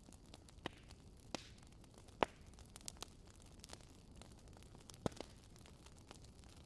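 Campfire crackling: scattered, irregular sharp pops over a faint steady hiss, the loudest pop a little past two seconds in.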